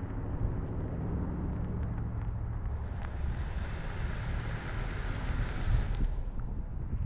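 Vehicle engine running with a steady low rumble. A rushing hiss rises about three seconds in and fades about three seconds later, like tyres through slush or a passing vehicle.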